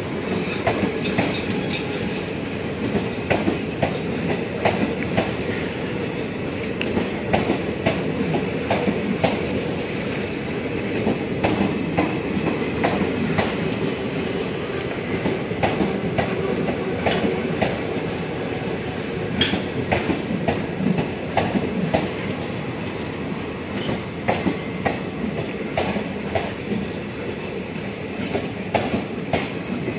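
Indian Railways passenger coaches rolling past at a platform, their wheels clattering over rail joints in a steady run of irregular clicks and knocks over a continuous rumble.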